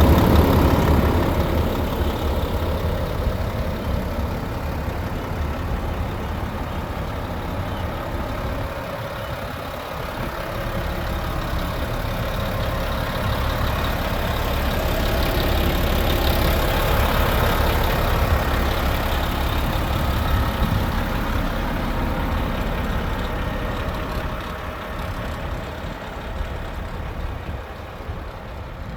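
Renault C 380 truck's diesel engine idling steadily. Its loudness swells and fades, loudest at the start and quieter near the end.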